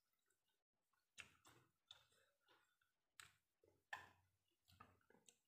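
Faint, irregular wet clicks and smacks of someone chewing a mouthful of rice and cooked papaya leaves with the mouth closed.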